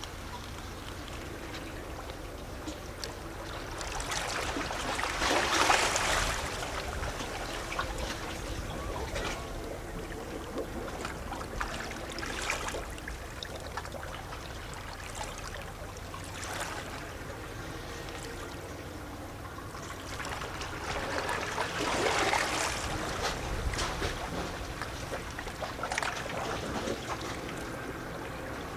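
Small sea waves lapping and sloshing against shoreline rocks, with gurgling and trickling as the water runs back. Two larger swells splash in, about five seconds in and again past twenty seconds, between steady lighter lapping.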